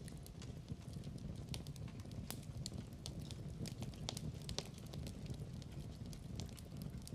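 Fireplace crackling: a steady low rumble of burning with irregular sharp pops and snaps of the burning wood.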